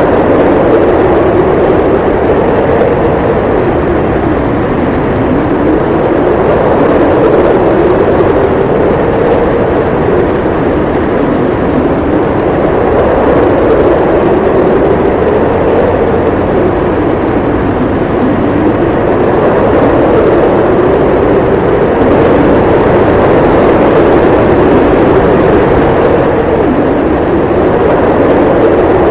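Howling wind in a snowstorm: a continuous loud rush whose pitch slowly rises and falls in long, drawn-out moans every few seconds.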